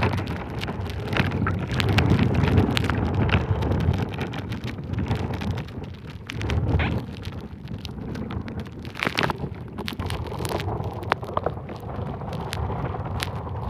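Strong wind buffeting the microphone, a rumbling, gusting noise that rises and falls, with scattered short clicks and knocks.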